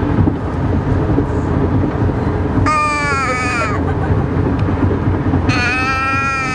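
A baby's high-pitched squeals: one about a second long near the middle, dropping in pitch as it ends, and another starting near the end, over a steady low rumble.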